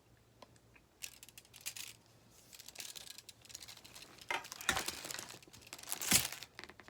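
Hands handling the metal parts of a fire pit: irregular clinks, scrapes and rustles that start about a second in and grow busier, with the loudest clatter near the end.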